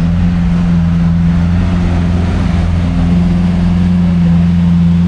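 Car engine idling steadily at a constant, even pitch.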